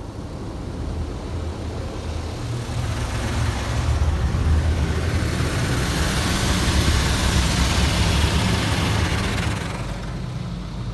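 High-pressure side blaster jets of a WashTec SoftCare 2 Pro car wash spraying water against the car: a loud hissing spray that builds over the first few seconds and drops away near the end, over a steady low rumble.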